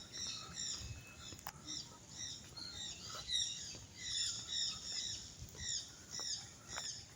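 Birds chirping: many short, high, arching calls in quick succession, several a second.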